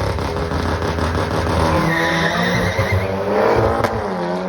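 Drag-racing car engine running hard at full throttle, its pitch climbing and then dropping sharply at a gear change near the end.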